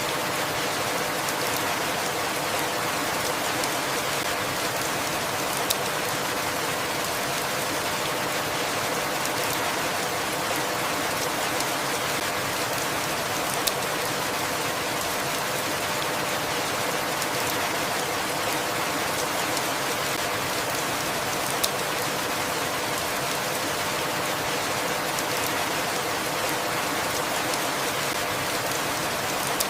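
Steady, even rainfall, with three sharp single ticks standing out about eight seconds apart.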